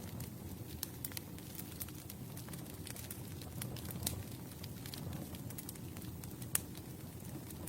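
Campfire burning: a steady low rumble of flames with irregular sharp crackles and pops from the wood, one louder pop about six and a half seconds in.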